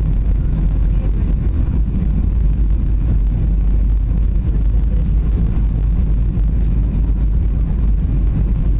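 Boeing 737 airliner moving with a steady low rumble, no distinct tones or impacts.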